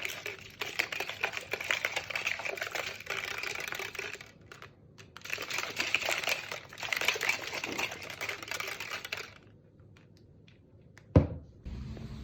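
A fast run of small taps and clicks from work at a desk, pausing briefly about four seconds in and stopping after about nine seconds. One loud knock comes about eleven seconds in, followed by a steady low hum.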